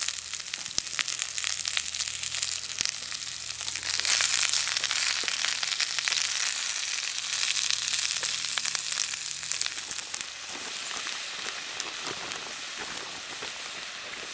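Vegetables sizzling and crackling as they stir-fry in hot coconut oil in a small pan. The sizzle grows louder about four seconds in and eases a little after about ten seconds.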